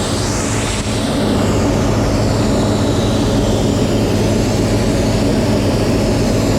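Mazzotti high-clearance self-propelled crop sprayer running steadily, a low engine drone with a hiss over it.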